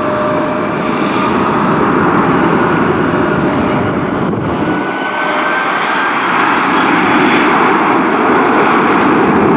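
Jet airliner taking off at full thrust: a loud, steady rushing noise with a faint engine whine that rises slightly in pitch, growing a little louder toward the end.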